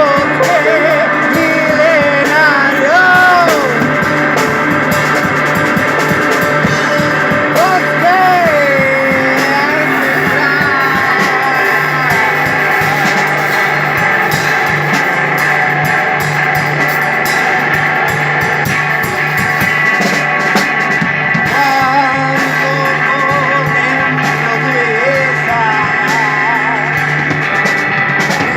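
Live rock music from an electric guitar and a drum kit: wavering, bending lead notes in the first ten seconds or so, then long sustained guitar tones over continuous drumming.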